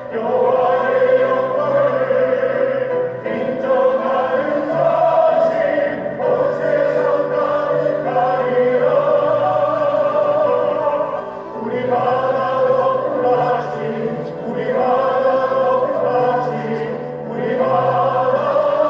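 Church choir singing a hymn with accompaniment, in sustained phrases a few seconds long.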